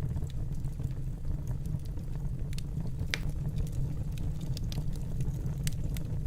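Wood fire burning in a fireplace: a steady low rumble of flames with scattered crackles and pops, one sharper pop about three seconds in.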